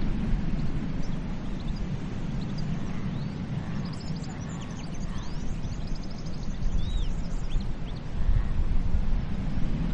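Steady low wash of sea surf and wind, with birds chirping and giving short whistled calls over it, busiest around the middle.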